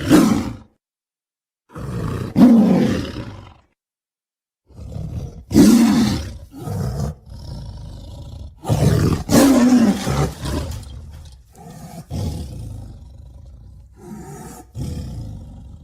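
Tiger sound effects: a short growl at the start, a louder roar about two seconds in, then after a gap of dead silence a run of roars and snarling growls from about five seconds on, each cut off cleanly.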